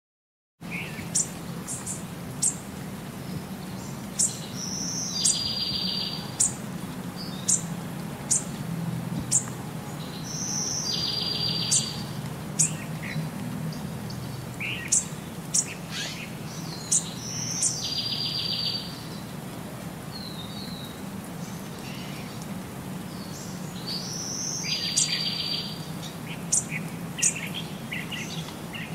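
Birds chirping in short, high calls, with a quick trilled phrase; the same pattern of calls repeats about every six and a half seconds, over a low steady hum.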